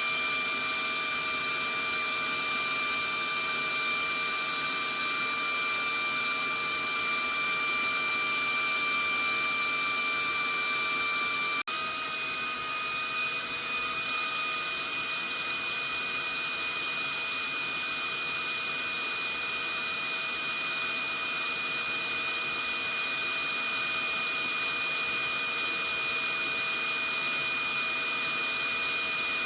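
Vacuum cleaner running steadily: an even rushing hiss with a motor whine of several steady tones. About twelve seconds in it cuts out for an instant and resumes slightly louder, its whine a touch higher.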